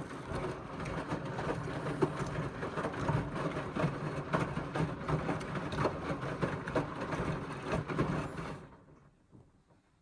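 Indesit washing machine drum turning a full load of wet cotton laundry during the rinse, motor humming under a stream of small knocks and tumbling; it runs for about nine seconds, then stops.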